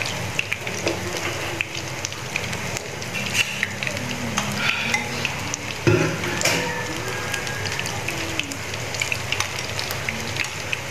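Batter-coated small shrimp fritters sizzling and crackling in hot oil in a frying pan: a steady spitting hiss with many small pops. There is a single dull thump about six seconds in.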